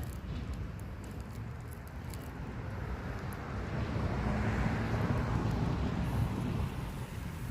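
A road vehicle passing: a rush of traffic noise that swells to a peak about halfway through and then fades, with a low steady hum underneath.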